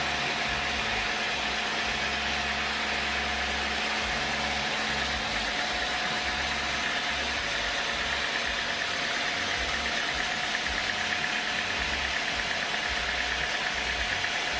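Sawmill machinery running steadily: a constant engine-like drone with fixed humming and whining tones over a noisy wash.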